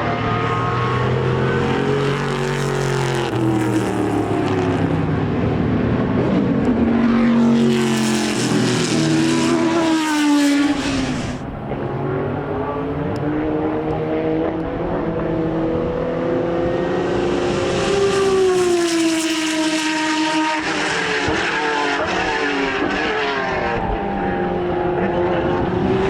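Racing car engines running hard on track, the pitch rising and falling through gear changes, with two loud passes: one about eight to eleven seconds in, which cuts off abruptly, and another around nineteen seconds.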